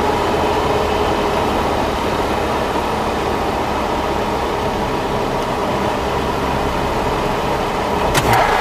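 A car's engine and road noise, steady, as picked up by a dash camera while driving. A couple of sharp clicks come near the end.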